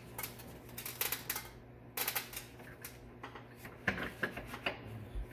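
Irregular clicking and clattering of hard plastic and metal parts being handled as a plastic engine fan shroud is worked loose.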